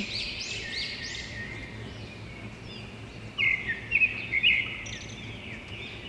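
Small birds chirping and twittering over a faint steady hiss. A quicker run of brighter chirps comes about three seconds in and lasts a second or two.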